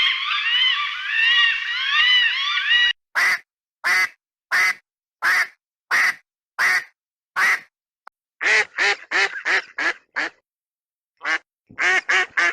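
Ducks quacking. For about the first three seconds there is a dense chorus of overlapping calls. Then come single quacks about 0.7 s apart, and after that two quick runs of quacks.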